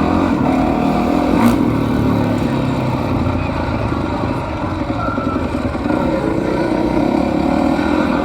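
Freestyle motocross dirt bike engine running steadily.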